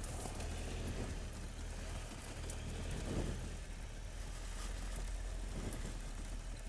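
Triumph Tiger 1200's three-cylinder engine running steadily at low revs, a constant low drone with no revving.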